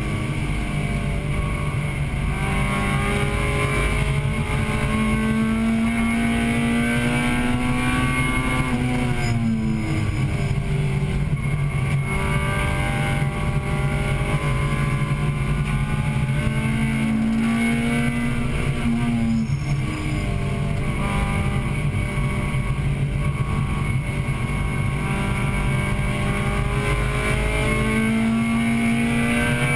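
1998 Acura Integra Type-R's four-cylinder engine pulling hard on track, heard from inside the cabin: its pitch climbs steadily, falls and climbs again about a third of the way in, and does so again about two thirds of the way in, over steady road and wind noise.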